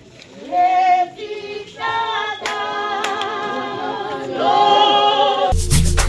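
A choir singing without accompaniment, several voices together with vibrato. About five and a half seconds in, a louder music track with a steady beat, deep bass and shaker-like strokes cuts in over it.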